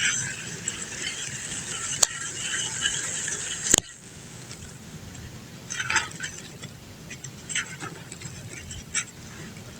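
Dry brown dirt crumbling: a gritty rustle with two sharp cracks, about two seconds and nearly four seconds in, then a few scattered crunches.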